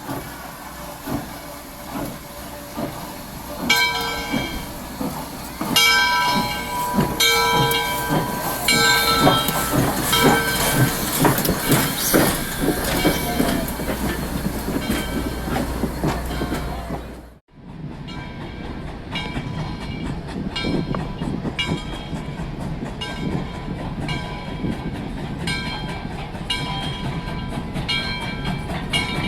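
A train running on the rails with a steady rumble and clatter. A ringing tone repeats roughly once a second over it. The sound drops out briefly about two-thirds of the way through, then carries on the same way.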